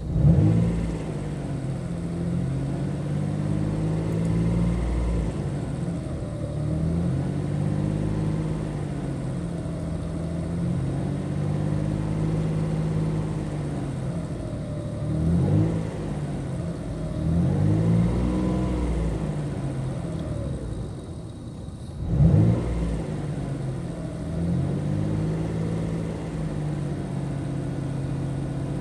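Dodge Stealth's V6 engine running, with the revs rising and falling several times, the sharpest rise about three quarters of the way through, heard from inside the cabin. The owner suspects a stubborn lifter tick that new lifters and oil changes have not cured, but doubts whether it is lifter tick at all.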